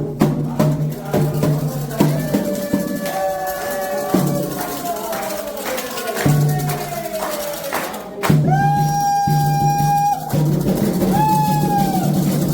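Candomblé ritual music: singing voices with sliding notes over atabaque hand drums and rattles, with long held sung notes in the second half.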